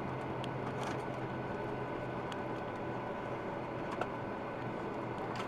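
Cabin noise inside a Boeing 737-800 on the ground after landing: a steady hum of the engines and air conditioning, with a few light clicks and rattles and one sharper click about four seconds in.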